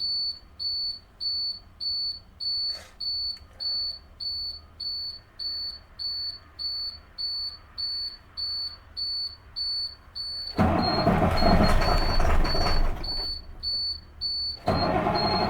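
A dash warning buzzer beeps steadily, about twice a second, while the key is on before a cold start. About ten seconds in, the cold International T444E 7.3 L V8 turbo diesel is cranked over loudly, goes quiet for a second or two, then is cranked again, with the buzzer still beeping.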